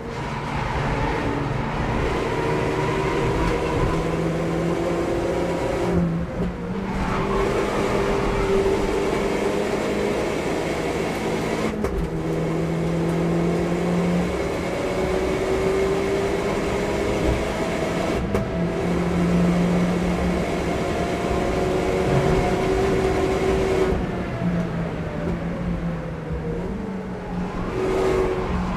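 Opel Corsa OPC's turbocharged four-cylinder engine with a full exhaust, heard from inside the car at speed. It pulls hard, its pitch rising and falling as the car accelerates and slows for corners, with a few brief breaks, over steady road and tyre noise.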